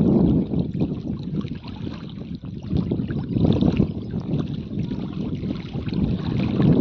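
Wind rumbling and buffeting on the microphone over the sound of lake water, rising and falling in gusts; it eases in the middle and swells again near the end.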